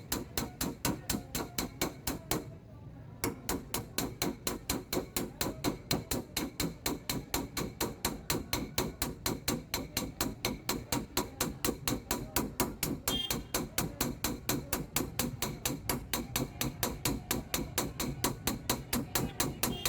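Steady rapid tapping of a small hammer on a Swift car door's sheet metal during paintless dent repair, as the dent is tapped down. There are about four taps a second, with a short pause about two seconds in.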